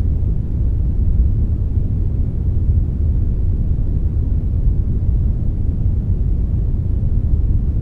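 Steady, unchanging brownish noise, a generated blend of brown and white noise, deep and rumbling with little hiss.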